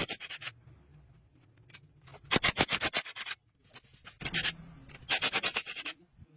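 Rapid back-and-forth scrubbing or sanding strokes, in four bursts of under a second each with short pauses between.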